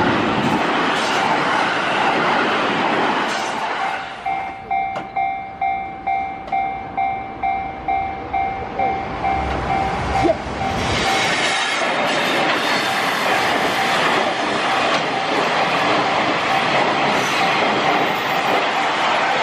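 A 281-series Haruka limited express finishes rushing past for the first few seconds. Then a level crossing alarm is heard on its own, ringing about twice a second. From about eleven seconds in, a JR West commuter electric train runs past with wheel and rail noise, the alarm still sounding faintly underneath.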